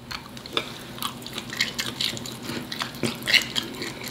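Close-up chewing of fried octopus: two people biting and chewing, with irregular wet clicks and smacks of the mouth.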